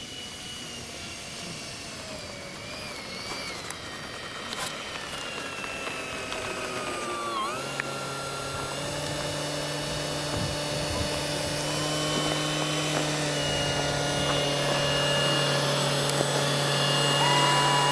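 Whine of a radio-controlled F-104 Starfighter model jet's electric ducted fan. Its pitch glides and dips in the first half, then holds steady and grows louder, with a low steady hum joining about halfway through.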